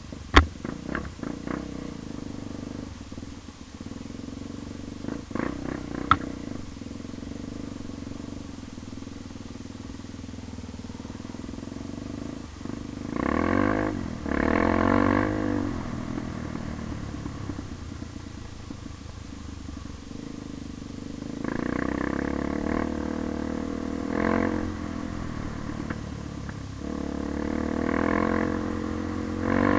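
Motorcycle engine running, with a couple of sharp clicks early on, revving up around halfway through and again over the last third.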